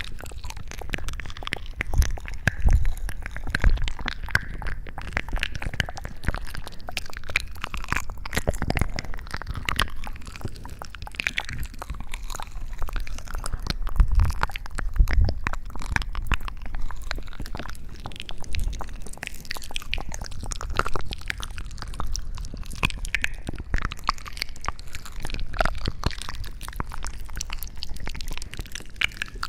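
Close-miked ASMR trigger sounds: a constant fine crackling and rustling with irregular soft, low thumps.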